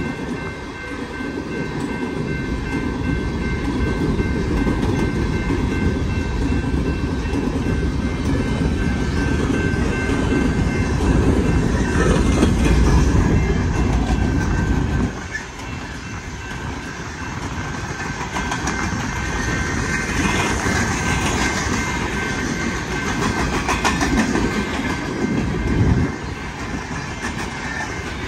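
Empty coal cars of a freight train rolling past at track level, their steel wheels running over the rails with a steady, loud rumble. The rumble drops suddenly about fifteen seconds in, and again near the end.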